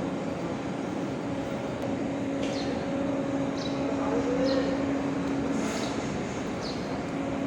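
Escort AE4.3312-3A diesel engine of a Hydra 14-ton crane running steadily with an even hum. About five short, high, downward chirps sound over it.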